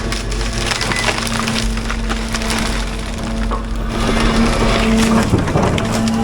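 Heavy diesel excavator running under load with a steady hum while it breaks and crushes brush and timber, with wood cracking and splintering repeatedly over the engine. The machine grows somewhat louder about four seconds in.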